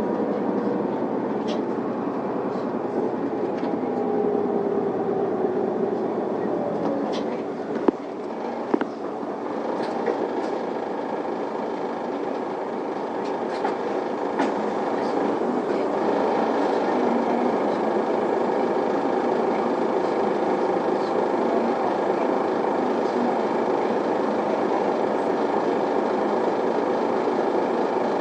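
Interior running sound of an Isuzu Erga diesel city bus on the move: steady engine and road noise, with a whine falling in pitch over the first few seconds. A couple of sharp knocks about eight seconds in, after which the sound grows louder and steadier.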